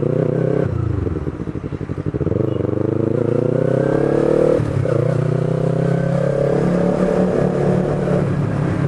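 Yamaha MT-03's parallel-twin engine riding through traffic: the revs drop about a second in, climb steadily, dip sharply at a gear change about four and a half seconds in, climb again and ease off near the end.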